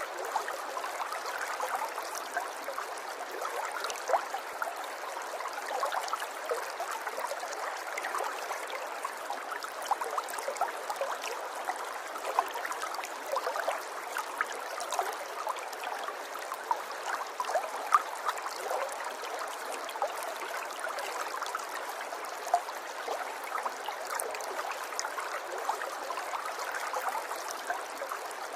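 A shallow river's water flowing and trickling, with small gurgles and splashes throughout.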